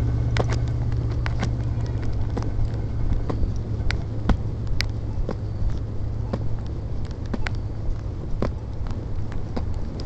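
Steady low hum of a vehicle engine running, with irregular sharp clicks scattered through it.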